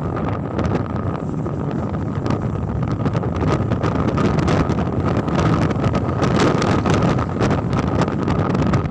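Wind buffeting the microphone over a steady low rumble, with scattered light ticks throughout.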